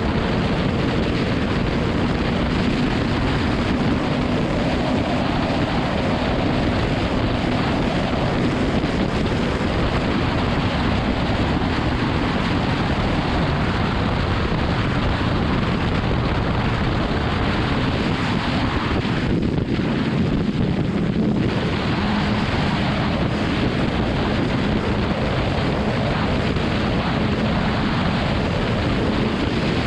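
Heavy wind rushing over the microphone of a motorcycle at riding speed, with the BMW S1000RR's inline-four engine running steadily underneath. The higher part of the wind noise dips briefly about twenty seconds in.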